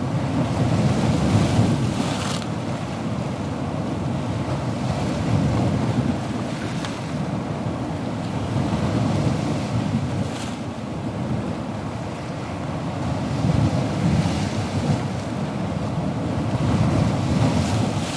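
Ocean waves breaking on a shore, a continuous surf wash that swells and eases every few seconds, with a low wind rumble on the microphone.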